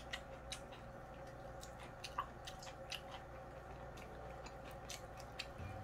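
A person chewing food close to the microphone, a run of small irregular clicks and smacks, over a faint steady hum.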